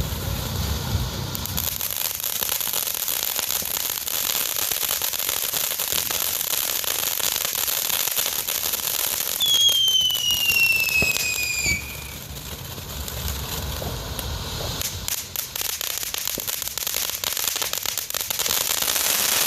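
Firework spraying with a steady high hiss. About halfway through, a whistle falls in pitch for about two seconds and is the loudest part. Rapid crackling pops follow near the end.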